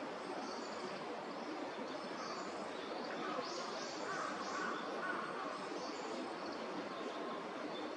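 Thin, high, short chirping calls of warbling white-eyes, scattered and coming in a quick cluster midway, over a steady rumble of distant traffic.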